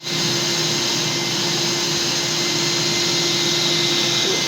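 Vacuum cleaner running steadily with an even whooshing and a constant motor hum; it switches on right at the start.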